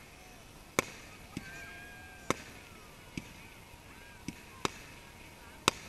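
Aerial fireworks going off: about seven sharp bangs in under six seconds, at uneven intervals, the loudest about a second in and near the end.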